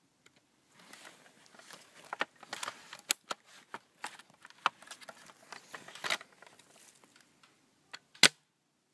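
Irregular crackling and snapping, like movement through dry brush, then one sharp loud crack near the end, the kind made by an airsoft rifle firing.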